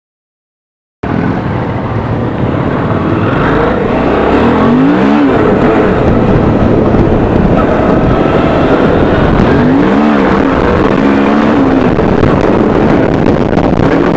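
Suzuki V-Strom 650's V-twin engine running under way with heavy wind noise, its pitch climbing and dropping about four seconds in and again about ten seconds in as it is revved.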